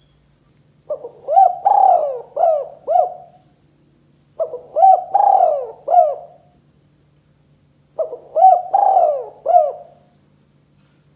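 Spotted dove cooing: three phrases of several low coos each, about three and a half seconds apart.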